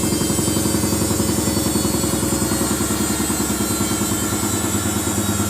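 Samsung front-loading washing machine running, a steady motor hum with a fast, even pulse from the turning drum.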